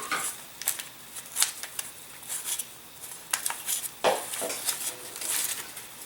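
Irregular light clicks, taps and scratchy rustles of small parts being handled: a model plane's speed controller and its wires being worked into the nose of the fuselage. The sharpest click comes about a second and a half in, a heavier tap about four seconds in.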